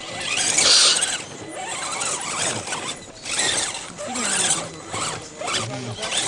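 Electric 1/10-scale RC 4x4 truck's motor and gears whining in repeated short bursts, rising and falling in pitch as the throttle is worked.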